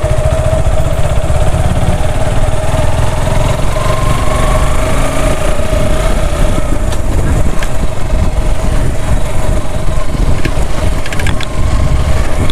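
Suzuki Gixxer SF FI's single-cylinder engine running steadily while riding, with a heavy fluttering rumble of wind on the microphone.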